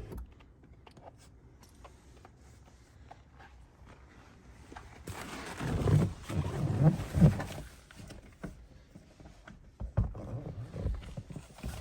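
Rustling and handling noise with several heavy thumps as someone climbs into a car's driver's seat. It is quiet apart from small clicks at first, turns loud about five seconds in, and ends with a few lighter knocks.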